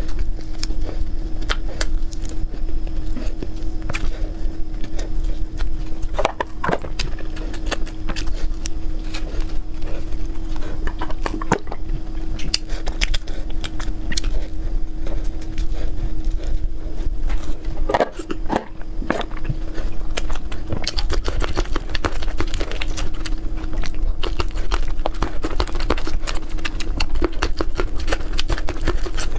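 Close-miked eating: bites and chewing, with irregular clicks and crunches, over a steady low hum.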